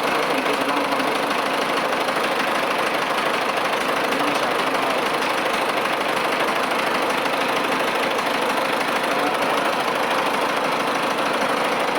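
Ford 5000 tractor engine running steadily at idle, with an even fast pulse.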